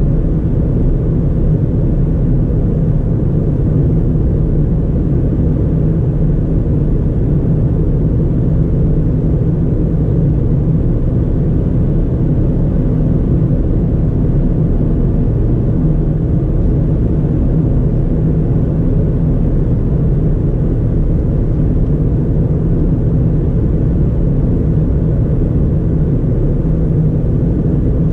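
2009 Ford Fiesta 1.4 Ghia automatic, its 1.4-litre four-cylinder engine and tyres giving a steady low rumble while the car drives at an even speed.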